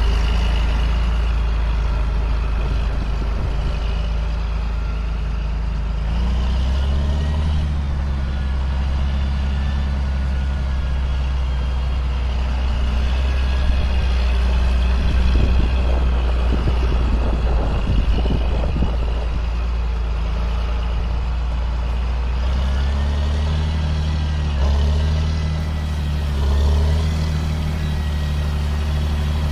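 A 2005 John Deere self-propelled sprayer's diesel engine runs steadily under load. Its hum steps up slightly in pitch about six seconds in, then dips briefly and rises again near the end.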